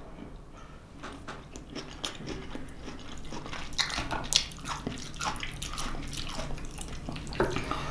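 A person chewing a mouthful of vegetable stir fry (zucchini, squash and bell pepper), with many small irregular mouth clicks.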